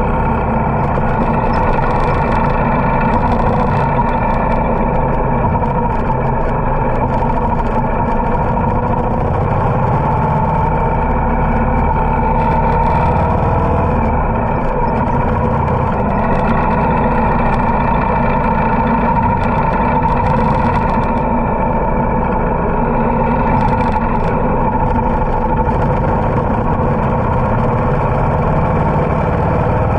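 Harley-Davidson motorcycle engine running steadily while riding, its pitch wavering only slightly.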